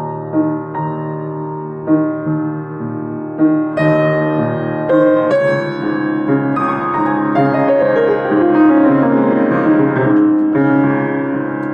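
Solo piano improvising: sustained chords with single notes struck over them, then a run of notes descending in pitch over a few seconds past the middle.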